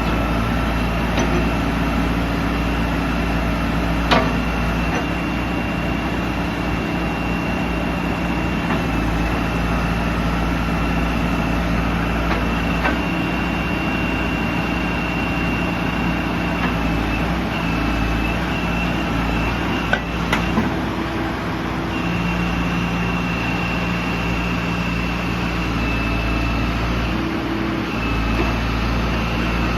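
Backhoe loader's Cummins diesel engine running steadily, with a thin high-pitched steady whine over it and a slight shift in engine pitch every several seconds. Sharp metallic knocks sound about four seconds in and again around twenty seconds in.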